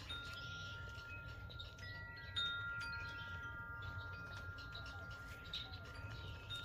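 Wind chimes ringing, several notes struck one after another and left to ring on together.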